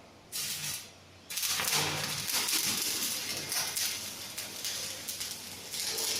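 Electric arc welding crackle: a short burst of arc, a brief break, then the arc is struck again and keeps crackling and sputtering steadily.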